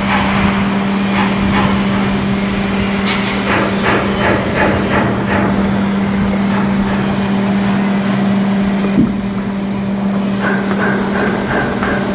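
Steady machinery hum, with a cluster of short knocks and clanks about three to five seconds in.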